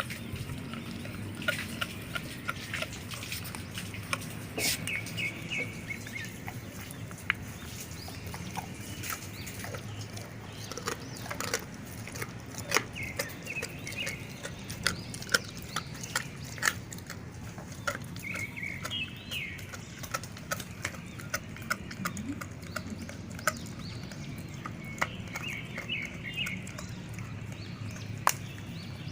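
Dogs chewing raw pork feet and chicken feet: a run of irregular sharp cracks and crunches as the bones break. Short bird calls sound a few times in the background.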